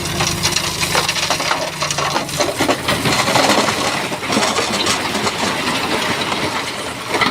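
Stones clattering and grinding against each other as a Shantui bulldozer pushes a load of rock, a dense run of cracks and knocks, with the dozer's engine running underneath for the first couple of seconds.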